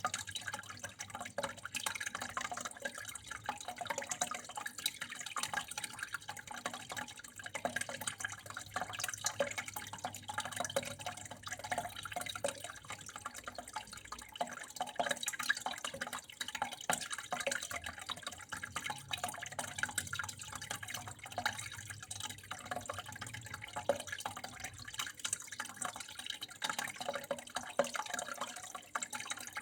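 Water flowing and dripping steadily: a constant trickle with many small, irregular drips and splashes.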